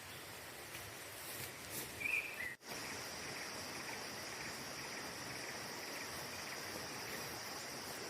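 Forest night ambience: a steady hiss of background noise, with a short chirp about two seconds in. After a brief break, a steady high-pitched insect trill runs on.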